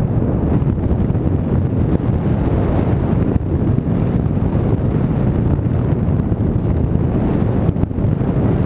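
Steady rush of wind buffeting the microphone of a camera carried on a radio-controlled model plane in flight.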